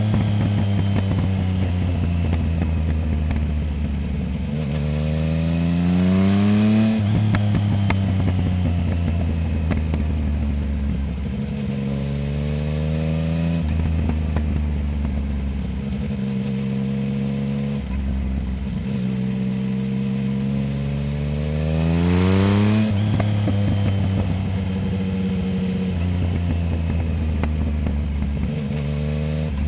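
Yamaha Tracer 900 GT's three-cylinder engine through a full Roads Italia aftermarket exhaust, heard from under the seat while riding: it accelerates hard, the revs climbing steeply about five seconds in and again past twenty seconds, with steady cruising and sudden drops in revs between.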